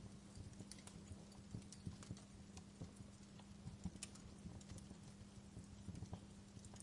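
Wood campfire burning faintly: irregular small crackles and pops over a low steady hum.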